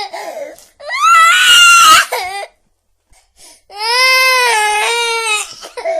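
Infant crying: two long wailing cries separated by a silent pause of about a second.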